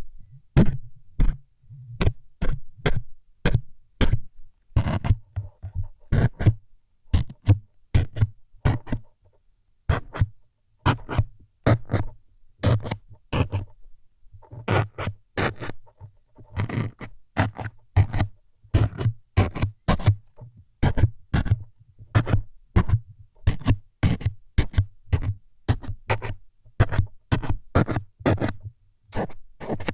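ASMR stabbing sounds: quick, sharp scratchy jabs on the microphone, each with a dull low thud, repeating at about two a second with a couple of brief pauses.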